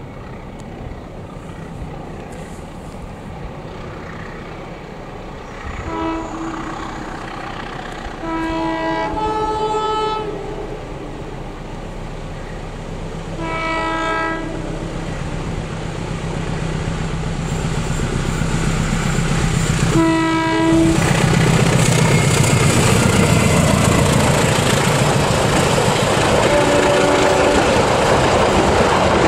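Diesel locomotive sounding its multi-tone horn four times as the train approaches: a short blast about six seconds in, a longer one a couple of seconds later, then two more. The engine grows steadily louder, and in the last third the passenger cars roll past, with the wheels clickety-clacking on the track.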